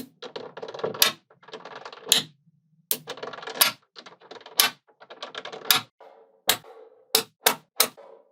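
Small magnetic balls rattling and clicking together as they are handled, each cluster of rattles ending in a sharp snap as balls jump into place; from about six seconds in, single sharp clicks come about two a second.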